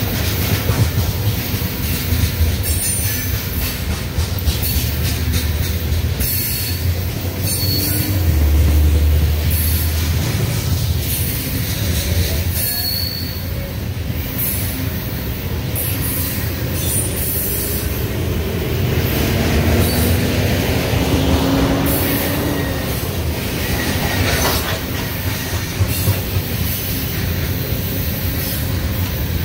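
Cars of a loaded coal train rolling past at steady speed: a continuous rumble of wheels on rail with repeated clicks over rail joints and brief, scattered high wheel squeals.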